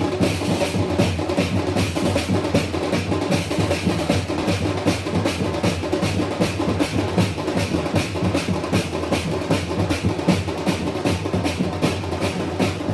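Percussion-led music with fast, steady drum strikes, several a second.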